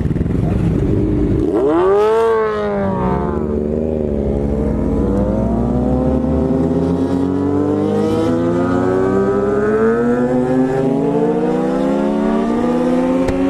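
BMW S1000RR inline-four sport bike engine. About two seconds in, its revs rise and fall quickly; then it pulls steadily, its pitch climbing slowly as the bike accelerates.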